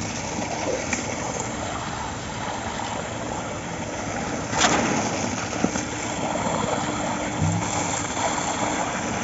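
Diesel machinery running steadily during a concrete slab pour, with a sharp metallic clank about halfway through and a lighter knock a second later.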